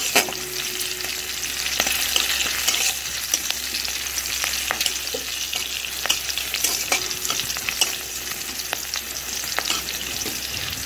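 Green chillies and nigella seeds sizzling in hot oil in a kadai, over a medium flame. A metal spatula scrapes and taps against the pan as they are stirred, giving scattered clicks over the steady sizzle.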